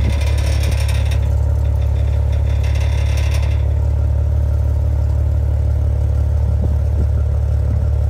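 2015 Maserati Ghibli's V6 engine idling steadily, heard at the exhaust, with a metallic clacking rattle from the exhaust pipes in the first second or so and again about three seconds in, then the steady idle alone.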